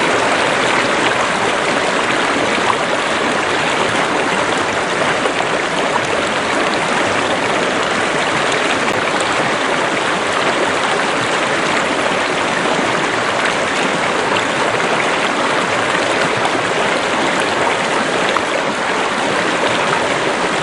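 Running water of a stream or river, rushing steadily.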